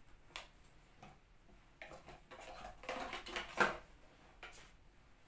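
Unboxing handling sounds: a couple of light clicks, then paper packaging rustling as a small paper box is lifted and handled, with a sharper knock about three and a half seconds in.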